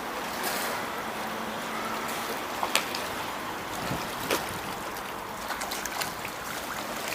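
Swimming pool water splashing and lapping in a steady hiss, with a few small sharper splashes now and then.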